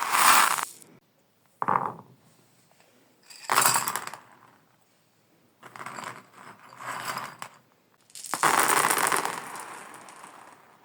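Marbles clattering and rolling along a marble-run track, in about five separate bursts of rattling with quiet gaps between them.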